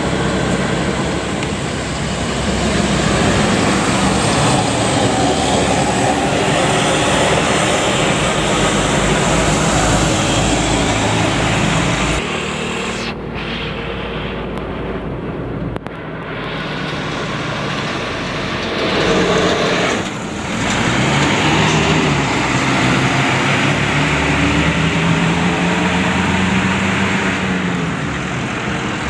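Heavy road vehicles, buses and trucks, running past with loud, steady engine and tyre noise. Near the end an engine note rises and falls.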